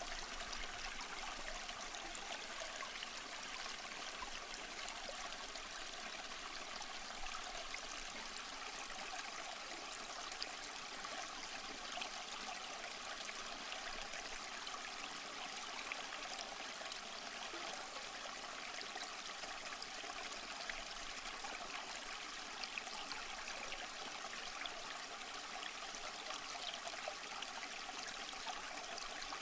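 A small stream flowing over rocks: a steady babbling and trickling of water, even throughout with small splashes.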